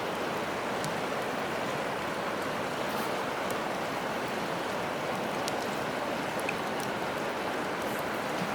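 Steady rushing of a river, with a few sharp crackles and pops from a wood campfire.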